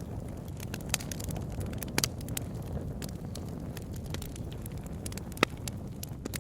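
Wood bonfire burning with a steady low rush of flames and scattered sharp crackles and pops, the loudest a double pop about two seconds in and a single sharp pop about five and a half seconds in.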